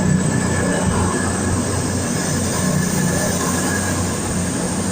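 CrossCountry Class 221 Super Voyager diesel-electric multiple unit moving through the station, its underfloor diesel engines running with a steady hum and a thin high whine above it.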